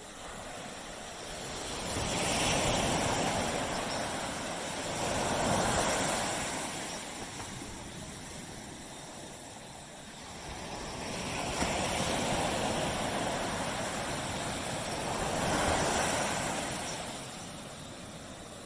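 Ocean waves breaking on a beach, the surf rising and falling in slow swells of rushing water.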